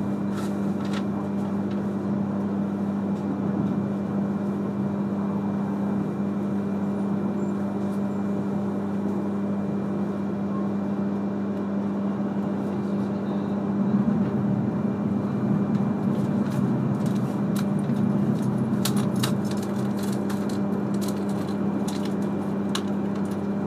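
E3-series Shinkansen train running at a steady speed, heard inside the passenger cabin: continuous running noise with a steady low hum. A run of sharp clicks comes in the last few seconds.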